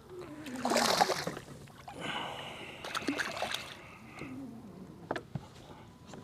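A hooked fish splashing and thrashing at the water's surface beside a kayak. The loudest splash comes about a second in, followed by smaller water and line sounds.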